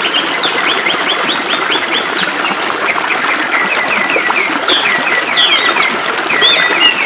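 Birds chirping in quick runs of short, high notes over the steady hiss of flowing water.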